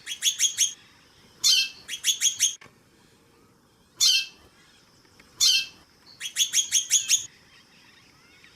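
Female white-bellied seedeater (chorão) calling: quick runs of four or five sharp, downward-sliding chirps, separated by single longer down-slurred calls, repeated several times.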